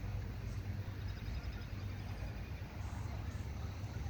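A faint, rapid trill of high bird notes about a second in, over a steady low rumble.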